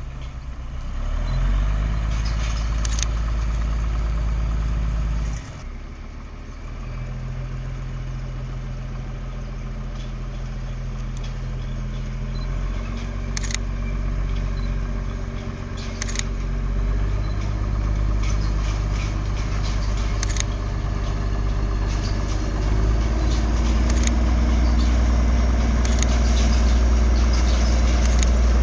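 Diesel locomotive engine running steadily, its low note shifting up and down in steps and growing louder toward the end, with a few sharp clicks scattered through it.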